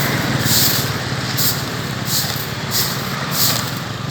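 Brooms sweeping sand and grit across pavement: repeated scraping swishes, about one to two a second. Under them a vehicle engine idles with a steady low rumble.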